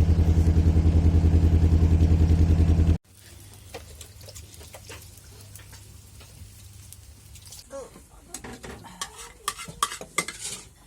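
A narrowboat's engine running with a steady, even beat, which cuts off abruptly about three seconds in. After that, quiet crackling with scattered sharp taps that grow busier near the end.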